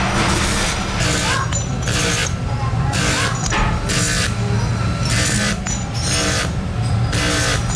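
Workshop machinery running with a steady low hum and a rhythmic series of hissing, scraping bursts, a little more than one a second.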